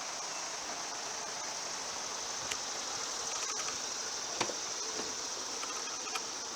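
Steady high-pitched drone of insects, with a few faint clicks and taps.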